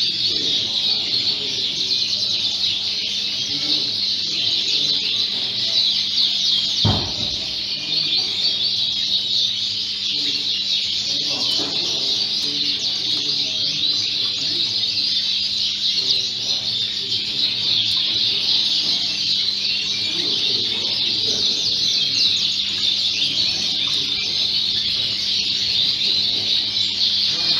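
Many Fife canaries singing at once, a dense, unbroken chorus of high trills and chirps. A single thump sounds about seven seconds in.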